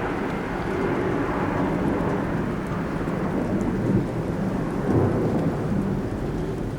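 Thunder rumbling continuously over steady rain, swelling twice about four and five seconds in.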